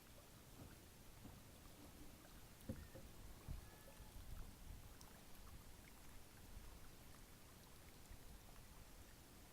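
Quiet small waves lapping against a drifting paddle boat's hull, with a couple of soft knocks about two and a half and three and a half seconds in.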